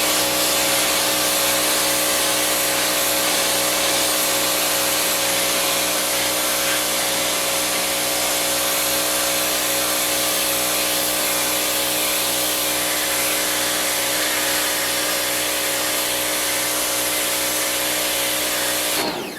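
Pressure washer running steadily, its motor and pump humming under the hiss of the water spray, then shutting off suddenly just before the end.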